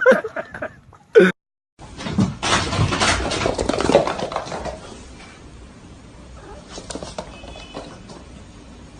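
Sounds of a pet animal moving about, with knocks and rustling. There is a brief break to silence about a second and a half in, and the activity is busiest over the next few seconds, then quieter.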